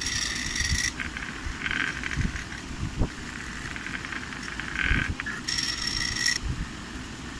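X-Carve CNC router's stepper motors whining in short bursts of steady pitch, each up to about a second long, as the machine's axes move. Several changes of pitch and some low knocks come in between.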